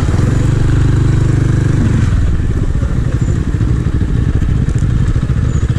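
250 cc scrambler motorcycle engine running under way, holding a steady note for about two seconds before the note shifts and turns rougher.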